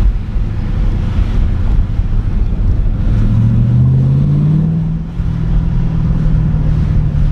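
Ford Mustang engine running on the road, its pitch rising about three seconds in as the car gathers speed and then holding steady, over road rumble.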